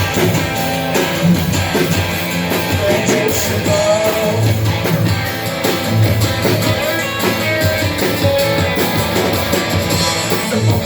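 Rock band playing an instrumental passage: guitars carrying a melodic line over a drum kit, at a steady loud level.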